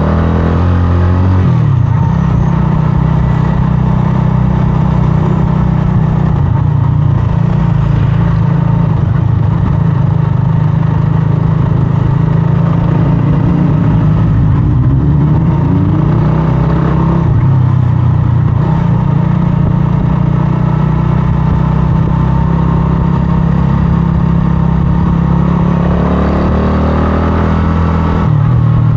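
125cc scrambler motorcycle engine running under way, loud and steady. Its note dips and climbs again a few times, about a second and a half in, around the middle, and near the end.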